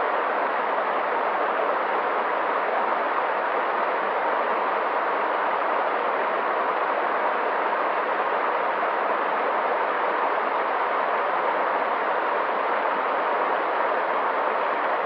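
Running water: a steady, even rush that does not rise, fall or break.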